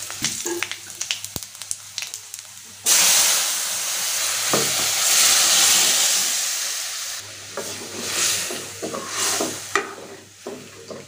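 Dried chillies, garlic and cumin frying in hot oil in a metal karahi as a spatula stirs and scrapes the pan. About three seconds in, boiled dal with taro leaves is poured into the hot oil, setting off a sudden loud sizzle that fades over about four seconds. After that comes a ladle stirring and scraping the pan. This is the tempering step of the dal.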